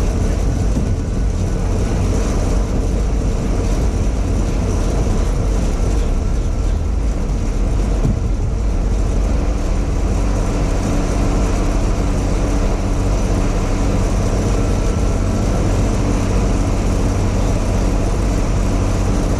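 Farm tractor's diesel engine running steadily under heavy load, pulling a loaded grain wagon up a hill in a low gear.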